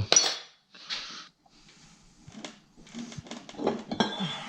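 Scattered metal clicks, knocks and rustling as engine parts are handled, the freshly removed two-stroke crankshaft and crankcase being moved about on the bench. A sharp knock comes right at the start.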